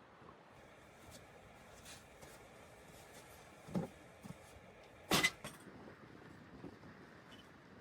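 A few scattered knocks over a faint steady hiss, the loudest coming about five seconds in.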